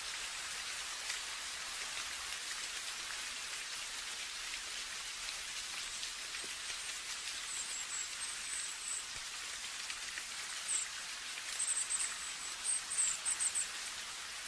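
Steady rain falling, an even hiss of drops. A series of short, high-pitched chirps comes in about halfway through and again in quick runs near the end.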